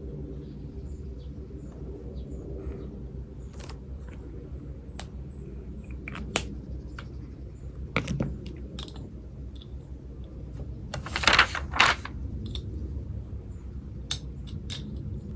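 Pen writing on paper at a desk: scattered short scratches, taps and clicks, with a louder double scrape about eleven seconds in, over a steady low background hum.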